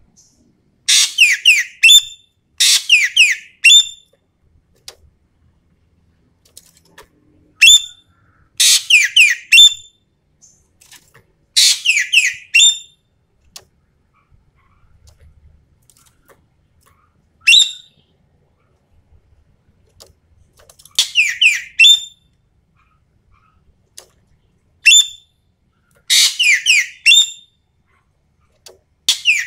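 Ekek keling Sumatera (a Sumatran songbird) calling in loud, harsh bouts: each bout is a quick run of falling notes lasting about a second, repeated about ten times with short pauses between. This is the bird in full, vigorous song of the kind used to train or lure other birds.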